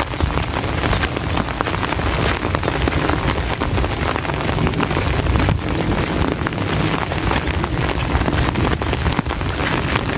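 Heavy rain falling steadily, a dense hiss of countless drops with a low rumble underneath.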